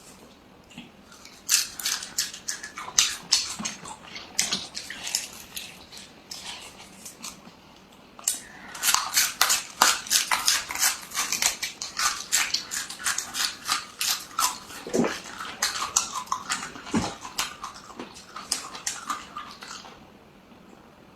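Person chewing crisp raw plant food: rapid crunches, several a second, with a short lull about a third of the way through before heavy chewing resumes and stops shortly before the end.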